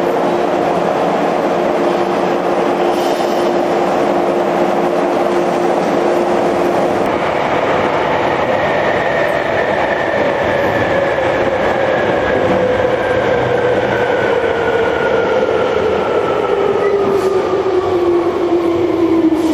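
Electric train running noise with a steady hum for about seven seconds. Then, after a cut, the inside of a Hankyu 3300-series car: the traction motor and gear whine falls slowly and steadily in pitch over the running rumble as the train slows down.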